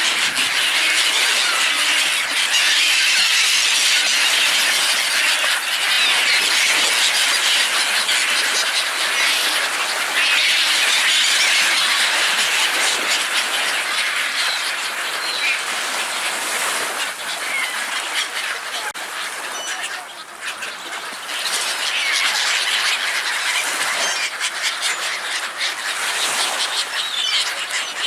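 A crowd of water birds calling over one another as they compete for thrown food, in a feeding frenzy, with the calls thinning briefly about two-thirds of the way through.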